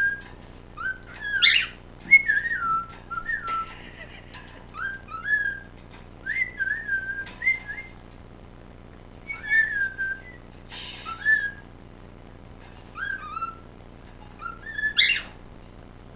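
Cockatiel whistling, a string of short whistled phrases that glide up and down, with a few brief rougher bursts among them.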